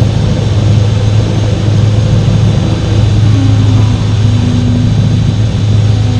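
V8 engine running at a steady, unchanging speed, a loud low drone.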